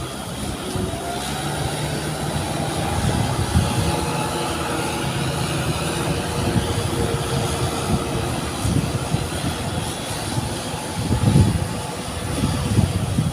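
Tractor engine running steadily under load with a held, even drone.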